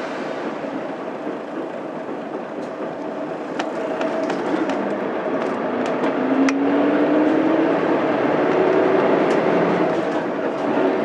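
Interior running sound of a Mitsubishi Fuso Aerostar city bus with its 6M70 straight-six diesel, riding with a steady drone of engine and road noise. About halfway through it gets louder and the engine note rises slowly as the bus pulls in gear, with scattered clicks and rattles from the cabin.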